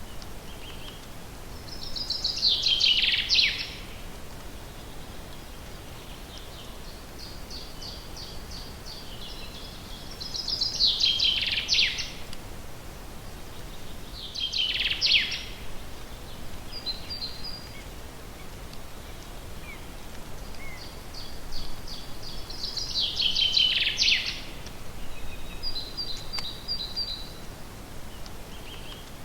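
Songbird singing, repeating the same short song every few seconds: a quick run of high notes that drops in pitch and ends in a downward sweep. Underneath is a steady faint hiss.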